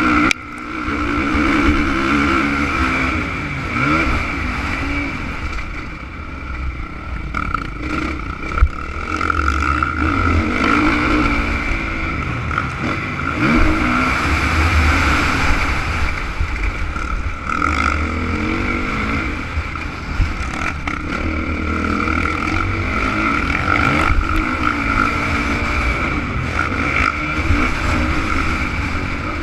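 Honda CRF450 motocross bike's single-cylinder four-stroke engine revving up and down over and over as it is ridden.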